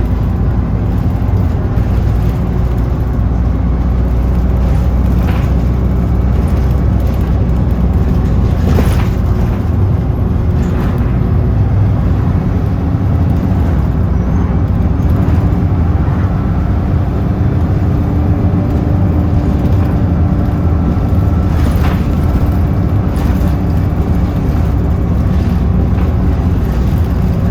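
A bus running along the road, heard from inside: a steady, loud low drone of engine and road noise, with a few short rattles and knocks from the body.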